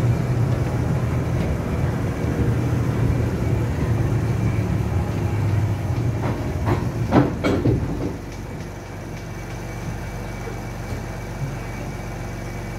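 Carriage of a 15-inch-gauge miniature railway train rolling slowly along the station platform, its wheels rumbling on the track. A few sharp clanks ring out about seven seconds in, and the rumble then drops away as the train eases down.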